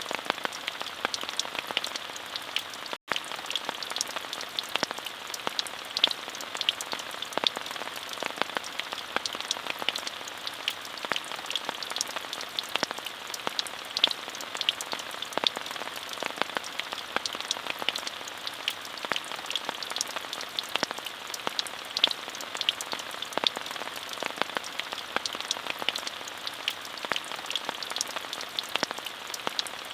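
Steady rain falling, many distinct drop ticks over an even hiss. The sound cuts out for an instant about three seconds in.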